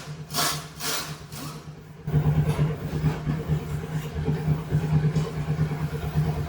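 A few scattered knocks, then about two seconds in a motorcycle engine comes in and runs at a steady idle with a fast, even pulse.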